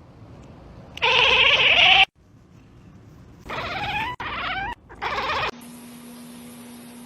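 A cat meowing: one long, loud meow about a second in, then three shorter meows rising in pitch. After a cut, a steady low hum with hiss.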